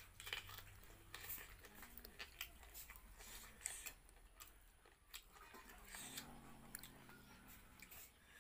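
Faint chewing of food with irregular crunches and small clicks, a person eating a meal of rice and fried food.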